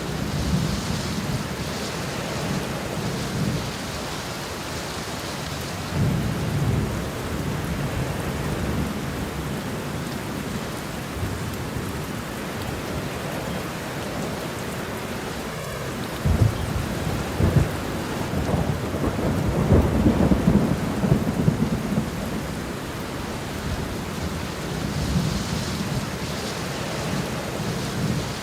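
Thunderstorm: steady rain with low rolls of thunder coming and going. The loudest roll, with a few sharp peaks, comes just past halfway through.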